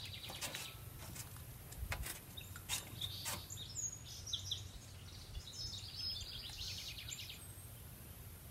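Birds singing: a rapid high trill early on and another about six seconds in, with short chirps between. A few sharp clicks around two and three seconds in, over a steady low outdoor rumble.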